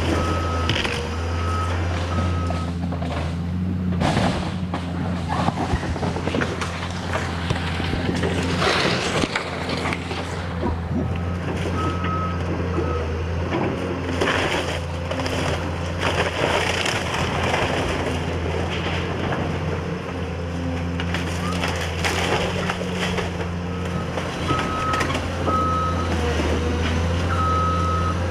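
Heavy diesel demolition equipment running steadily, with loud crunching and crashing of debris being broken up. A reversing alarm beeps in a regular series at the start, again about twelve seconds in, and near the end.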